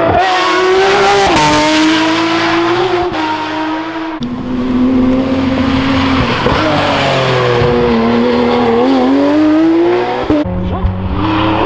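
Porsche rally car engine under hard acceleration, its note stepping down in pitch twice in the first four seconds as it shifts up, then rising and falling as the car is driven through a section of the stage.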